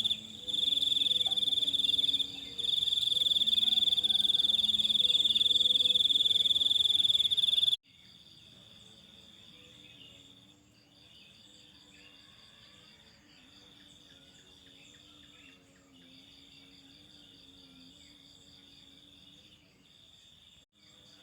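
Crickets trilling in one steady, high, continuous chirr. About eight seconds in the sound cuts off suddenly and comes back much quieter, the trill now breaking off every second or two, with faint low calls underneath.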